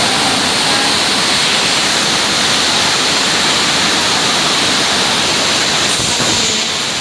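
Steady, loud rush of water pouring, like a waterfall.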